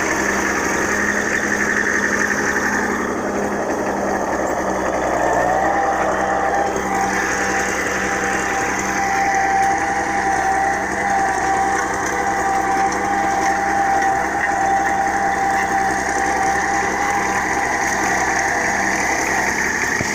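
Ebro tractor engine running steadily while pulling a 16-disc harrow across a field. A steady whine comes in about five seconds in and holds.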